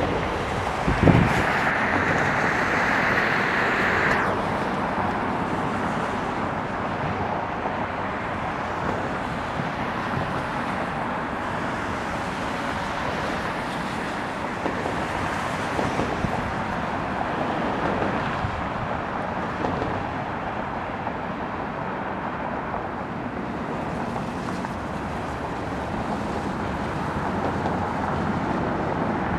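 Steady jet noise of an Airbus A319 arriving to land, with a brief brighter hiss and a thump in the first few seconds.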